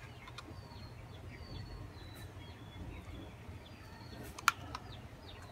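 Small birds chirping in short, repeated downward-sliding calls over a low steady hum, with one sharp click about four and a half seconds in.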